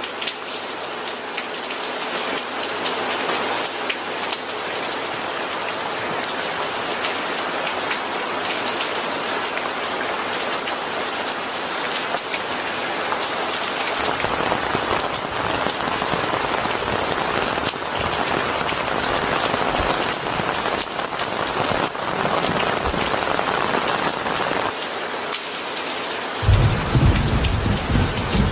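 Steady rain falling, with a low rumble of thunder joining about halfway through and swelling to its loudest near the end.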